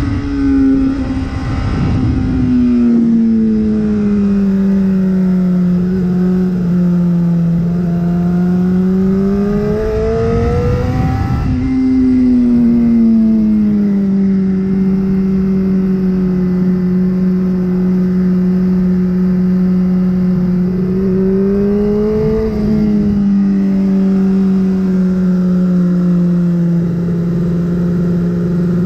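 Honda CBR600RR's inline-four engine under load on a race track, with no pauses. Its pitch sags and climbs several times, with a sharp drop and recovery about halfway through and longer stretches of nearly steady revs, over rushing wind noise.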